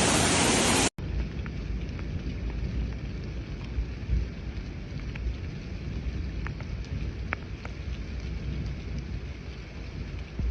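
Rain falling, with scattered single drops ticking and a low rumble underneath. About a second in, a louder steady rushing hiss cuts off suddenly and the rain continues more quietly.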